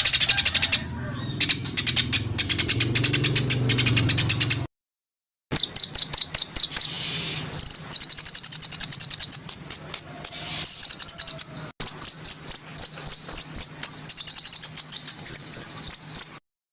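A songbird giving fast rapid-fire trains of sharp, high chirps, about eight to ten a second, in several bursts, with an abrupt cut to silence about five seconds in.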